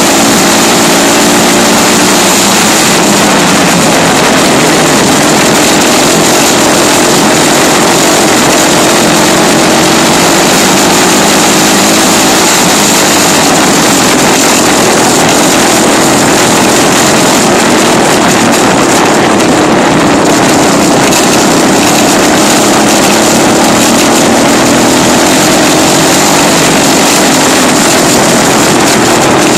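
Dirt bike engine running under way, very loud and heavily overloaded on a phone microphone. Its pitch drifts up and down as the throttle changes.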